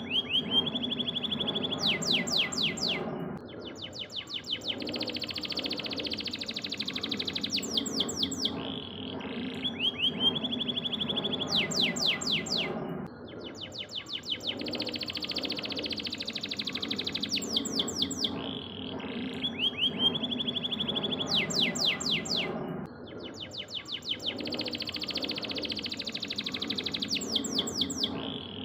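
Yellow domestic canary singing: rapid high trills and fast sweeping rolls in long phrases. The same song sequence repeats about every ten seconds, as in a looped training recording, over a low steady background noise.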